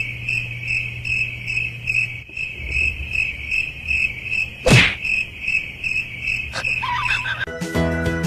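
High, rhythmic chirping, about two to three chirps a second, over a low steady hum. There is one sharp knock a little after halfway, and music starts near the end.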